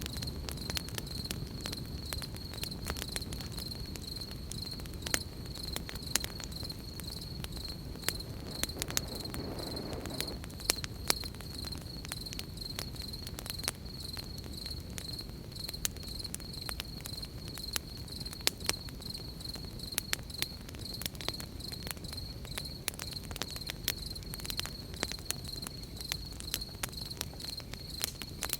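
Campfire crackling, with frequent sharp irregular pops, over a steady high trill of crickets chirping.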